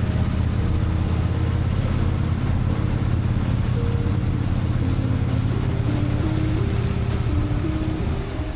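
Honda Shadow VT1100 V-twin engine running steadily under way, with a soft background melody over it. The engine sound drops a little near the end.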